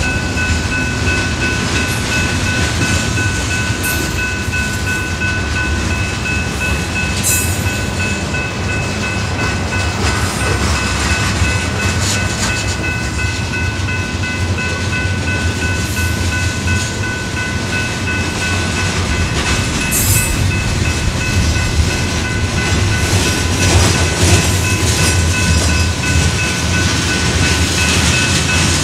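Freight train of covered hopper cars rolling past at steady speed: a continuous rumble of steel wheels on rail with occasional clicks, and a thin steady high tone riding above it.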